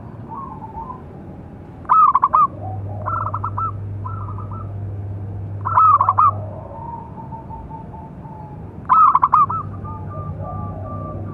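Zebra dove (perkutut) cooing: three loud bursts of quick staccato notes, about three to four seconds apart, with softer calls in between. A low steady hum lies beneath.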